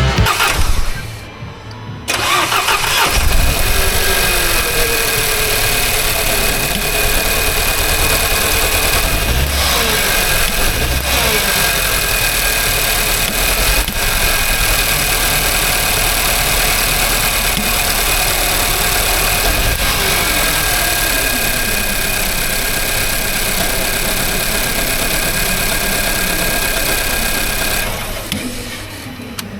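Nissan Juke F15's 1.2 turbo petrol four-cylinder engine starting about two seconds in and then running steadily with a light whine, fading out near the end. The engine has a severe misfire on cylinder 1, which has no compression because of a broken valve.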